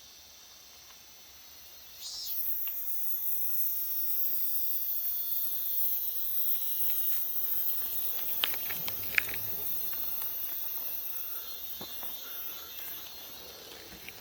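Steady, high-pitched chorus of insects buzzing in the forest, getting louder about two seconds in. A few faint clicks come near the middle.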